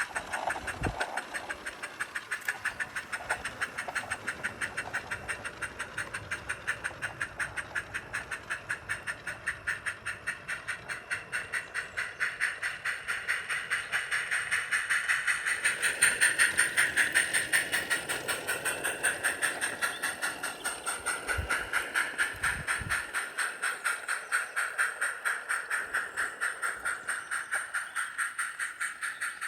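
Live-steam 7/8-inch scale Peckett-style tank locomotive under way, its exhaust sharpened by a Summerlands Chuffer into a fast, even chuff of about five beats a second. The chuffs grow louder about halfway through, then ease off.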